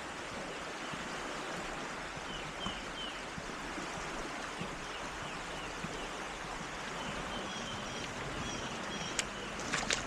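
Flood-swollen river rushing steadily, with a small bird chirping in short repeated notes over it. Near the end, a click and a few splashes of water.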